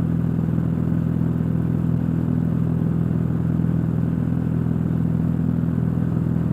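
Cessna 172's piston engine and propeller droning steadily at full climb power, heard inside the cockpit.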